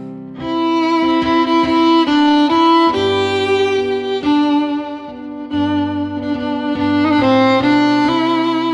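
Instrumental music led by violin over lower strings: a slow melody moving note by note.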